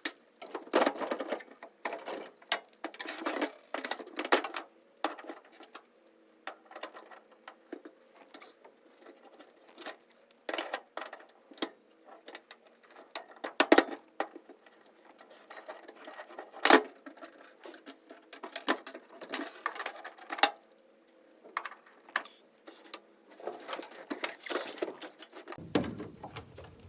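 Hand tools clicking, clanking and rattling against the car's metal in irregular spells, with a few sharper knocks standing out, as bolts and floor fittings are worked loose.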